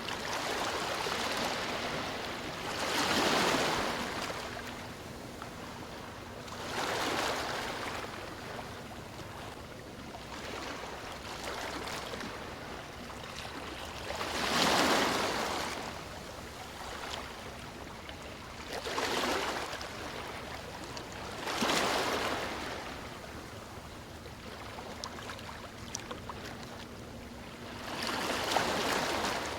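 Sea waves breaking and washing up a beach, a steady hiss of surf with a swell every three to seven seconds, about seven in all.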